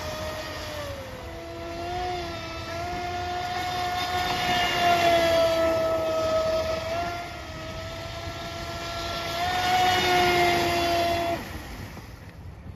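Radio-controlled model boat's motor whining as it runs, its pitch rising and falling with the throttle, then cutting off suddenly near the end.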